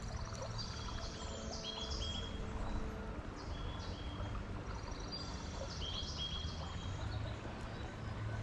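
Small birds chirping outdoors: short repeated calls, some with a falling hook, scattered through, over a steady low rumble.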